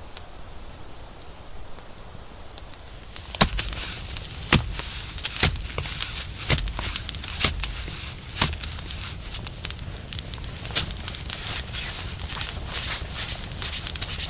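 Dry wood crackling and snapping in a dense run of sharp cracks, starting suddenly about three seconds in.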